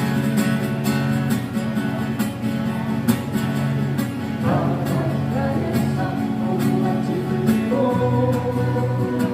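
Acoustic guitars strummed in a live song, with a singing voice coming in about halfway through and holding a long note near the end.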